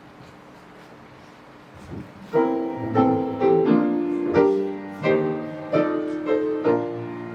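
Piano playing an introduction of struck chords, entering about two seconds in after a quiet pause, before a choir begins to sing.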